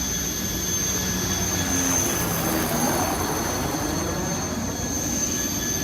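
Turbine engines of a jet-powered race boat running steadily: a constant high whine of several pitches over a rushing rumble.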